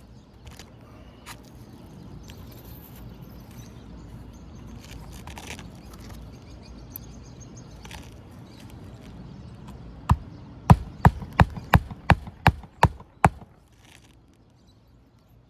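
Hammer driving a roofing nail into an asphalt shingle: about nine sharp, loud strikes, roughly three a second, beginning about ten seconds in. Before them there are only faint scattered taps and rustling.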